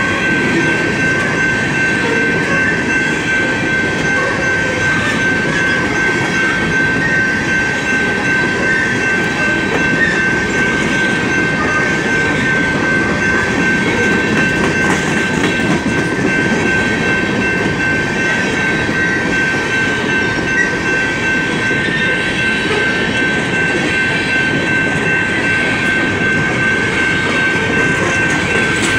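Coal train's freight cars rolling past, steel wheels clattering over the rail joints in a steady rumble. A steady high tone runs over it the whole time.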